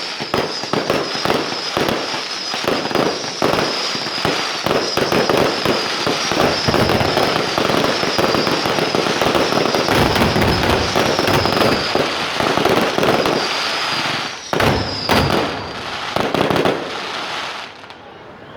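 Fireworks display going off in a dense barrage of bangs and crackling, with a high whistle running through most of it. It thins out near the end.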